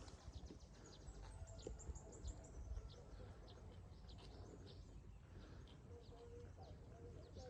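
Faint bird chirps, a quick run of them in the first few seconds and scattered ones after, over a low steady background rumble.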